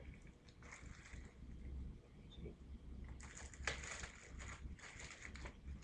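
Quiet handling noises of unboxing: scattered rustles, scrapes and light taps as packaging and a small toy are moved about, busiest a little past halfway, over a steady low hum.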